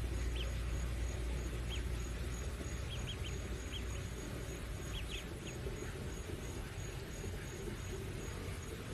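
Scattered short, high bird-like chirps over a steady background noise, with a faint high tone pulsing about three times a second, like an insect trill.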